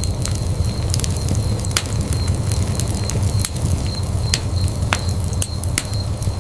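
Wood fire burning in a fireplace: a steady low rumble of flames under irregular sharp crackles and pops from the burning logs, roughly one to three a second.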